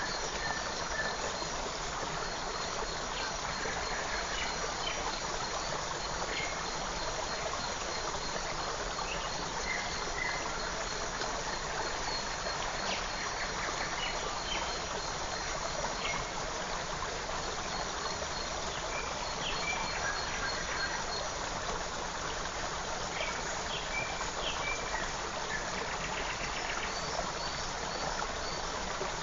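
Steady rushing and babbling of a forest creek, with scattered short high bird chirps and calls over it and a faint fast high ticking, like an insect.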